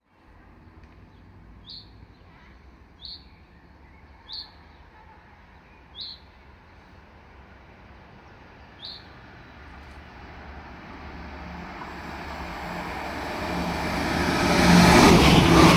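A bird gives five short chirps, spaced a second or two apart, over a faint background. Then a 10-car NS ICMm intercity electric train approaching at about 140 km/h grows steadily louder over the last several seconds, its rumble and rush becoming loud as it reaches the platform.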